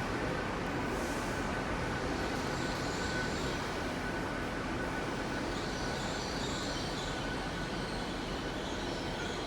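A train at the station platform, running with a steady noise. Faint high wheel squeal comes in from about halfway through.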